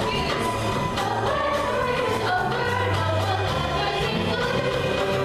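A chorus of voices singing over instrumental accompaniment with a steady beat and a bass line.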